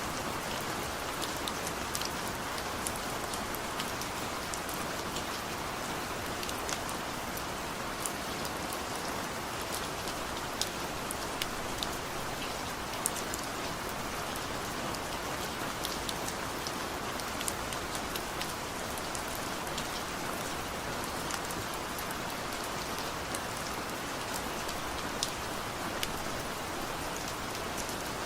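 Steady rainfall: a continuous hiss of rain with scattered individual drops ticking sharply against a surface.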